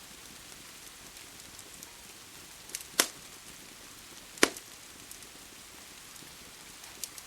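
Steady rain with a crackling wood fire: two loud, sharp pops from the fire about three and four and a half seconds in, with fainter crackles scattered between.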